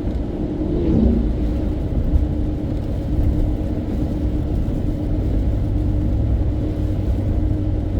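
Car driving along, heard from inside the cabin: a steady low rumble of road and engine noise with a constant hum.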